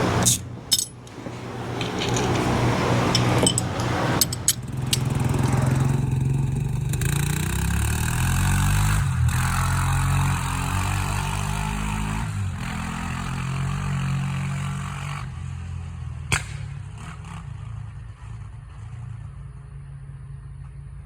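1999 Arctic Cat ATV engine running, its pitch rising and falling as it is revved and ridden, growing quieter over the last few seconds. A few sharp clicks and knocks sound in the first few seconds. The owner says the engine needs only a little carburetor tuning.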